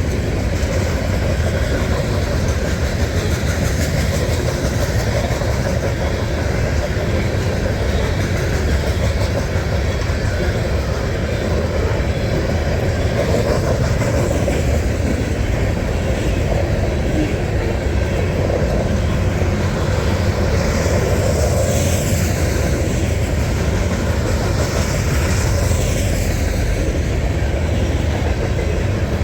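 Norfolk Southern coal train rolling past: a steady loud rumble of railcar wheels on the rails, with rhythmic clickety-clack over the rail joints.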